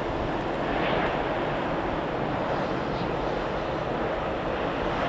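Jet airliner engine noise, a steady rushing sound.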